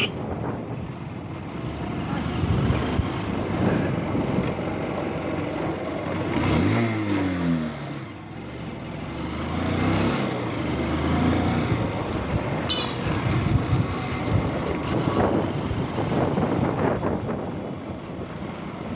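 Road and traffic noise heard during a ride, with wind on the microphone. About six seconds in, an engine's pitch drops and then climbs again a few seconds later. There is a brief high-pitched tone about thirteen seconds in.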